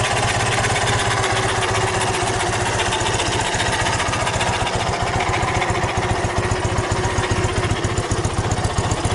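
Ural motorcycle's flat-twin engine idling with an even beat; the engine has been fully rebuilt, from the crankshaft up.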